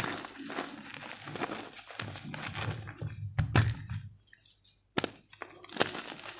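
Gym chalk being crushed, blue chalk blocks together with a large white chalk lump, making a dense run of dry crunching crackles. A heavier, deeper crunch comes about three and a half seconds in, and there is a brief gap just before five seconds.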